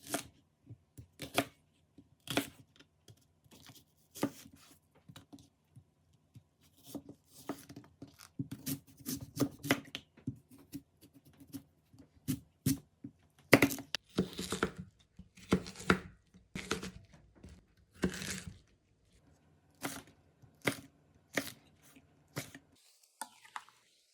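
Irregular series of sharp clicks, taps and brief rustles, like objects and packaging being handled, over a faint steady low hum.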